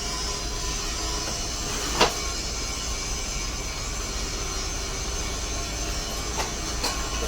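Steady mechanical noise with faint steady tones, broken by one sharp knock about two seconds in and two lighter clicks near the end.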